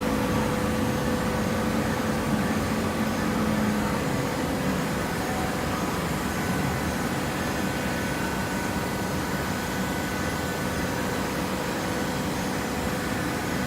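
Coconut fiber baler machine running: a steady mechanical hum with a constant whine at a few fixed pitches.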